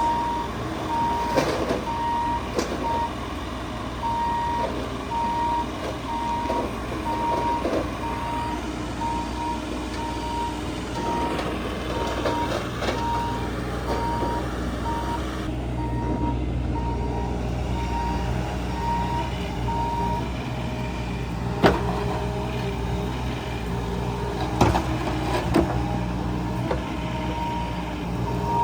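Heavy machinery's diesel engine running steadily while its backup alarm beeps over and over at one pitch. A few sharp knocks stand out, the loudest about three-quarters of the way through.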